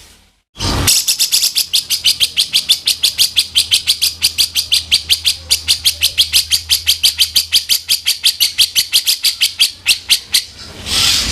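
Grey-cheeked bulbul (cucak jenggot) giving its harsh, rough call as a fast, even rattle of about seven strokes a second. The rattle starts about a second in, holds for roughly nine seconds, and breaks off shortly before the end.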